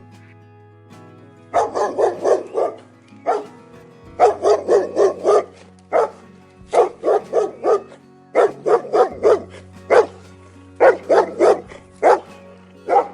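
A dog barking repeatedly, in quick runs of four to six barks with single barks between, over steady background music.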